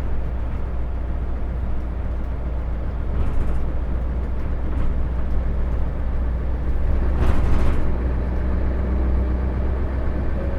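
Isuzu Erga city bus heard from inside while driving: a steady low engine drone with road noise, and a short surge of louder noise about seven seconds in.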